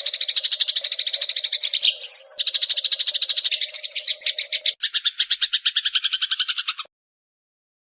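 Eurasian tree sparrows (burung gereja) giving fast, agitated fighting chatter: a dense run of rapid chirps that shifts to a lower, harsher chatter about five seconds in. The chatter cuts off suddenly near the end.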